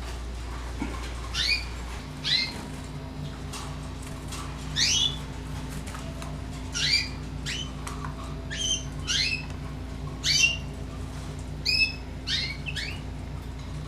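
Canaries giving short, rising chirp calls about once a second, now and then two birds close together. A low steady hum comes in about two seconds in.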